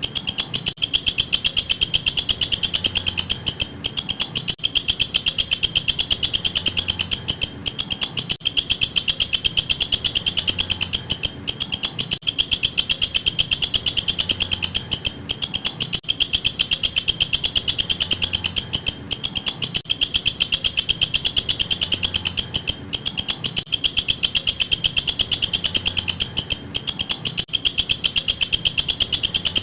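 Walang kecek insect singing continuously, a fast, high-pitched trill with a short break about every four seconds.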